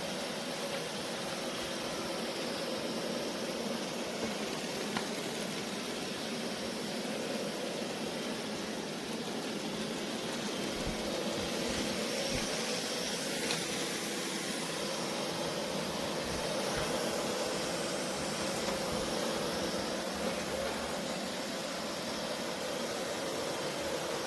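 Narwal Freo Z10 robot vacuum-mop running: a steady motor whir with an airy hiss and a faint steady hum.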